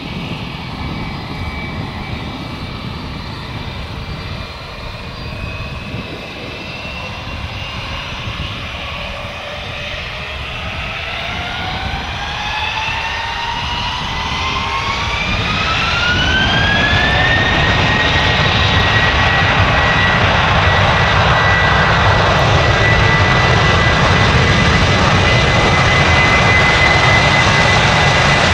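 Airbus A321-200's twin turbofan engines spooling up: a whine climbs steadily in pitch and the engine noise grows louder over several seconds, then holds steady at high thrust, as at the start of a takeoff run.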